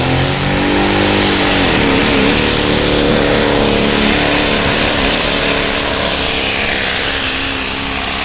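Dodge Ram SRT-10 pickup's V10 engine run hard at high revs while the truck drags a pulling sled. The engine's pitch dips briefly about two seconds in, then holds steady.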